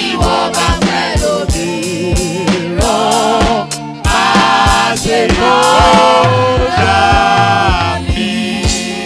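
Gospel praise song sung by a group of voices over a band with a steady drum beat, easing off in volume near the end.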